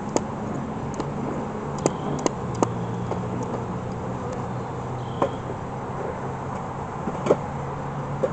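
A steady low hum under a handful of sharp clicks and knocks, the strongest near the end, as wooden hive frames and a hive tool are handled.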